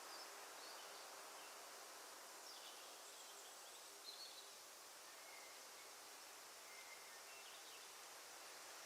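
Near silence: faint woodland ambience with a steady hiss and a few brief, faint bird calls, the clearest about four seconds in.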